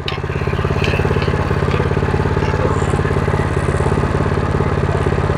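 Predator 212 single-cylinder four-stroke engine on a minibike, pulling under load as the bike is ridden; the engine note swells just after the start as the throttle opens, then holds at a steady speed.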